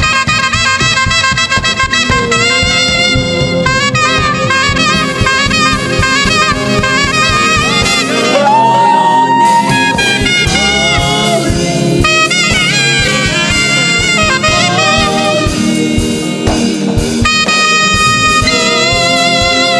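Live gospel band playing, led by a saxophone carrying the melody with bends and vibrato, over keyboard, drums and guitar.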